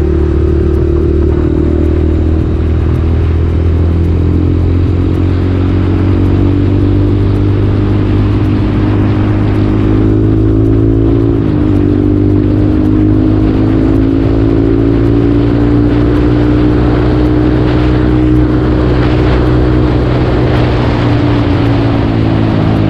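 Motorcycle engine running at cruising speed with wind rush, heard from the rider's seat. About halfway through the note dips and recovers in a quick gear change, then rises slowly as the bike accelerates and eases off near the end.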